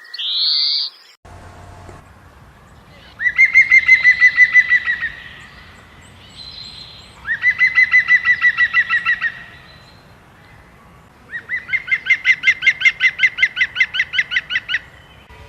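A bird calling in three rapid trills of evenly repeated notes, roughly ten notes a second. The third trill is the longest. In the first second there is a short rising note.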